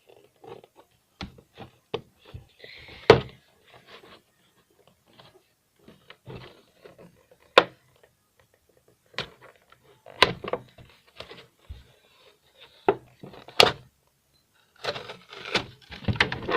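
Toy doll packaging being handled and pulled apart: irregular clicks, knocks and rustling of cardboard and plastic as the doll is freed from its box, with a few sharper knocks.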